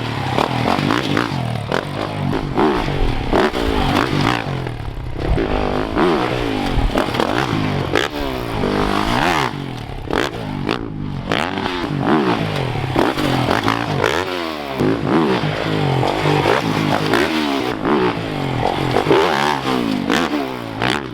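Dirt bike engines revving hard on a motocross track, their pitch climbing and dropping again and again with throttle and gear changes, several notes overlapping.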